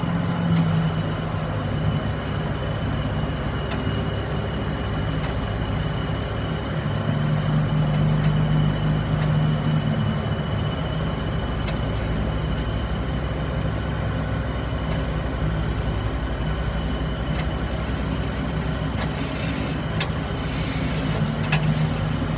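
Aircraft pushback tug's engine running steadily at a constant speed, with a steady high-pitched whine over it and a few faint clicks.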